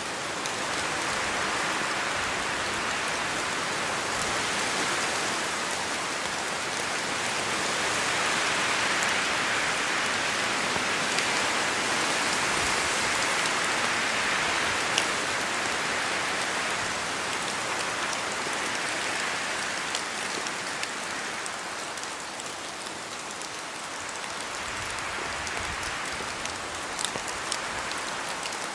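Steady rain in a forest, with drops pattering on leaves and the ground and a few sharper drops near the end. The rain swells and eases gently.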